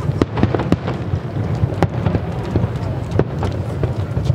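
Fireworks going off: an irregular run of sharp bangs and crackles over a low, steady rumble.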